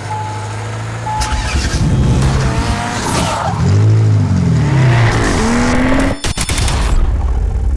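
Racing engines revving hard and passing by, their pitch rising and falling in sweeps, with a sharp break about six seconds in.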